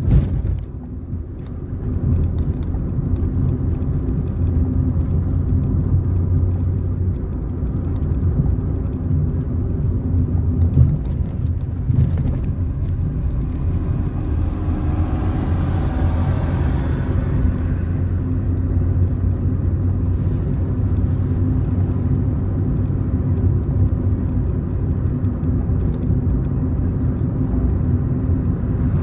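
Car driving along a road, heard from inside: a steady low drone of engine and tyres, with a couple of brief knocks from bumps. About halfway through, a louder hiss swells and fades again.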